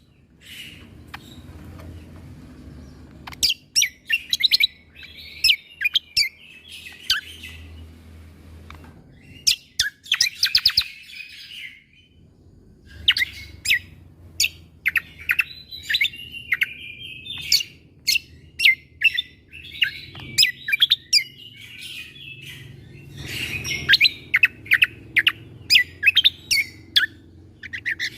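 Cucak kombo (kecial kombok) singing: clusters of sharp, rapid 'shot' notes mixed with short warbled phrases, the 'tembakan' style used as training song, with a brief pause about twelve seconds in.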